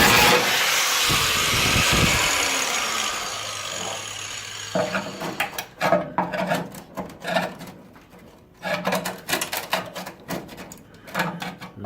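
Angle grinder cutting steel bodywork is released just after the start and spins down with a falling whine over about two seconds. From about five seconds in come irregular metallic knocks and scraping as the cut panel is worked.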